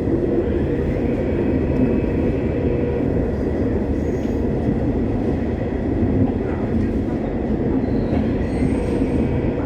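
Busan Metro Line 3 Hyundai Rotem IGBT-inverter train running between stations, a steady rumble of wheels on the rails.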